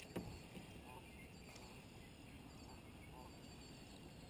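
Near silence: faint outdoor ambience with a few faint, distant bird calls.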